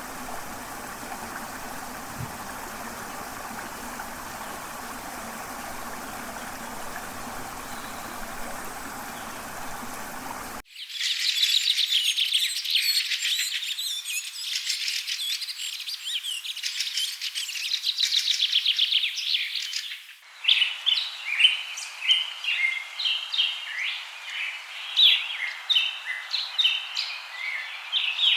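Rainforest ambience in three abruptly cut sections: first a steady rush of running water, then, about ten seconds in, a dense chorus of high trilling insects and birds, and from about twenty seconds in, birds chirping in repeated short notes.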